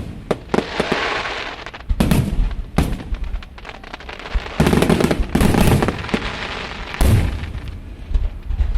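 Aerial fireworks bursting: a rapid series of sharp bangs and booms, with crackle between them, each bang trailing off in a rumble. The heaviest bursts come about two seconds in, around five seconds in and at seven seconds.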